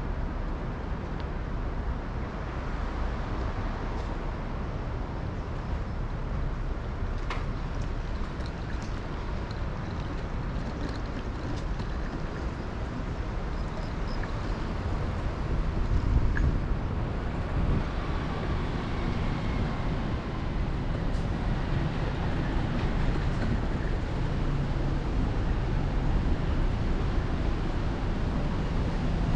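Steady low rumble of city vehicle noise heard while riding, with a few light clicks and a slight rise in loudness about halfway through.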